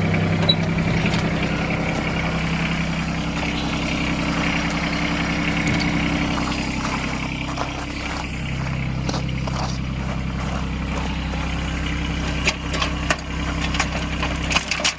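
Tractor engine idling steadily, its speed dropping slightly about eight seconds in. From near the end, sharp metallic clinks and clanks, like tow chain being handled.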